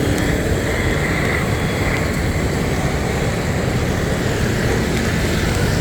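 Steady city street traffic noise: vehicles running and passing with a continuous low rumble.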